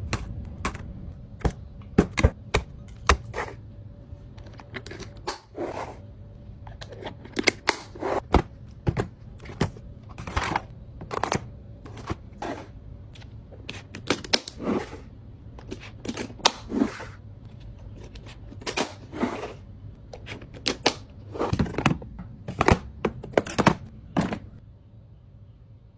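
Food containers and packages being handled and set down while a fridge is stocked: an irregular string of clicks, taps and knocks with a few longer rustling strokes. They stop shortly before the end.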